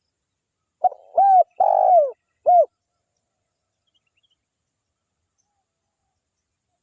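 Spotted dove (tekukur) cooing one phrase of four low, arched notes in about two seconds: a short first note, a second note, a longer third note and a short final note.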